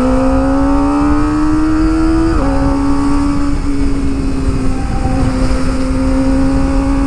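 Kawasaki ZX25R's 250 cc inline-four through an Akrapovic exhaust, pulling in gear with its note slowly rising. About two and a half seconds in, an upshift drops the pitch, and the engine runs on at a steadier, slowly climbing note.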